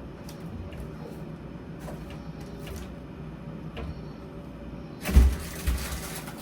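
Scattered light clicks and knocks over a steady low hum, then two heavy thumps about five seconds in, half a second apart, followed by rustling.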